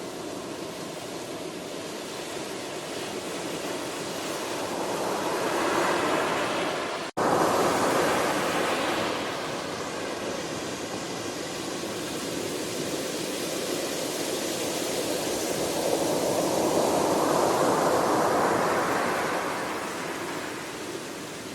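Ocean waves breaking and washing on the shore, swelling louder as a wave comes in and easing off as it recedes, twice. The sound cuts out for an instant about seven seconds in.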